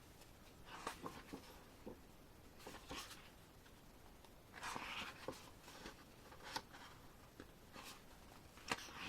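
Faint rustling and light clicks from a CD album's paper and cardboard packaging being handled, with a brief louder rustle about five seconds in.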